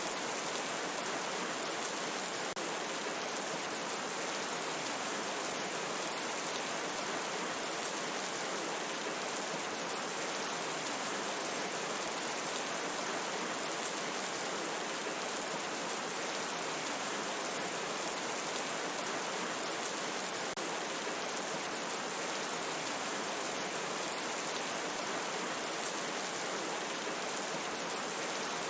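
Steady rain falling in a forest, an even, unbroken hiss of rain without pauses or changes.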